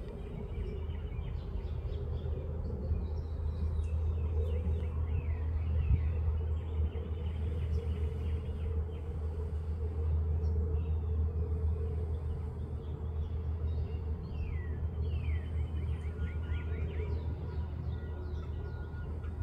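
Birds chirping in many short, quick notes, over a steady low rumble.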